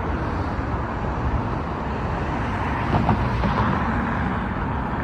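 Steady low rumble of heavy vehicle noise, with a few sharp clicks about three seconds in.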